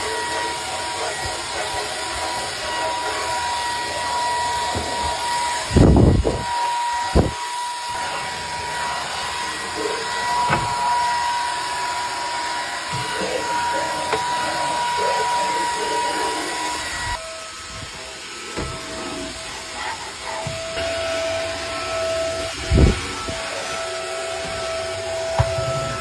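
Cordless stick vacuum (TMA 400W, 30 kPa) running with a steady motor whine that drops to a lower pitch about two-thirds of the way through. A few knocks sound as the cleaner bumps against surfaces.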